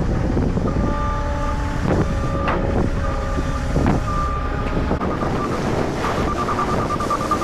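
Moffett truck-mounted forklift running under wind buffeting on the microphone, with a few held whining tones, then its reverse alarm beeping rapidly from about six seconds in.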